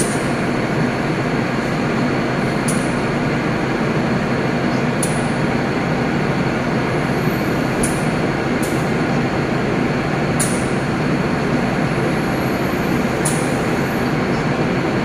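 Passenger train moving through the station: a steady rumble of wheels on the rails, with brief high-pitched squeaks every couple of seconds.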